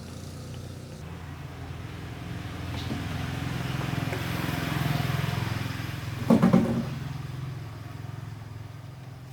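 A motor vehicle's engine running steadily, growing louder over a few seconds and then fading again. About six seconds in there is a brief burst of three loud sharp sounds.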